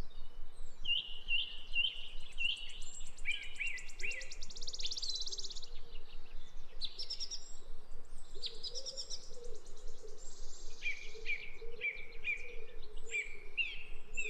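A songbird singing: rows of short chirps, each dropping in pitch, broken by a fast buzzy trill about four seconds in and again near nine seconds.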